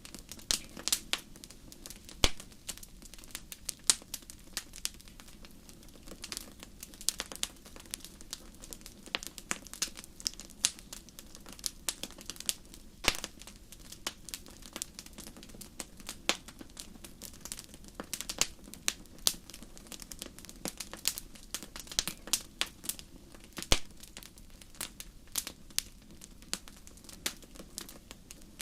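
Wood fire crackling in a fireplace: irregular sharp pops and snaps, several a second, over a low steady background of the burning fire.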